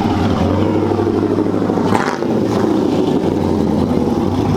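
Pickup truck's engine and exhaust running steadily as the truck pulls up, with a short rise in the sound about two seconds in.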